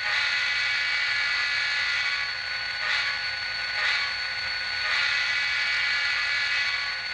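Diesel locomotive horn sample from an ESU LokSound 5 Micro sound decoder, played through the tiny 8 by 12 mm speaker of an N-scale SD40-2 model. The horn chord is held, swelling and easing a few times, and sounds thin, with no low end.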